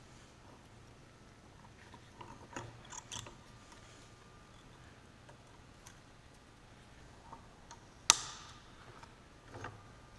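Scattered light metal clicks and taps from hand tools and parts being handled during the teardown of a Salisbury rear differential, with one sharp metallic clank about eight seconds in that rings on briefly.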